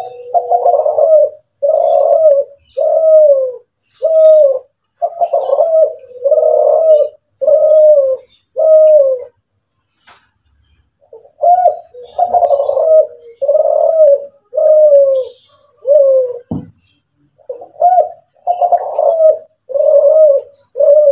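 Kelantan derkuku dove cooing (manggung): a steady run of short, full coos, about one a second, each falling at the end, with a pause of about two seconds near the middle. A brief low thud sounds about two-thirds of the way through, and faint high chirps of small birds are heard behind.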